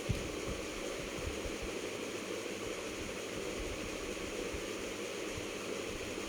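Chicken joints deep-frying in a kadai of hot oil: a steady, even sizzle, with one faint knock just after the start.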